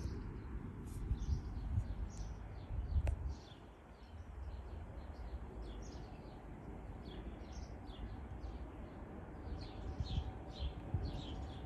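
Small birds chirping many times over and over, in short high calls, over a low, uneven rumble that swells in the first few seconds and again near the end.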